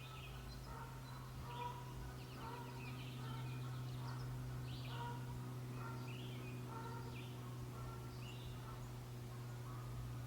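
Several birds chirping and calling in short repeated phrases, over a steady low hum.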